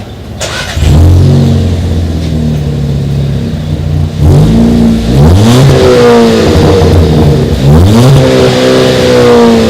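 Car engine with its muffler removed and replaced by a straight pipe, idling and then revved twice, each rev rising in pitch and falling back. The exhaust note stays fairly mild for an unsilenced car.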